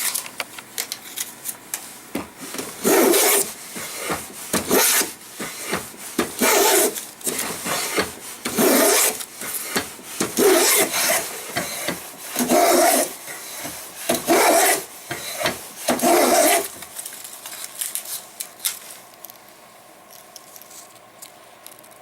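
Restored Stanley No.6 hand plane being pushed along a board in repeated strokes, about eight strokes roughly two seconds apart, stopping about three-quarters of the way through.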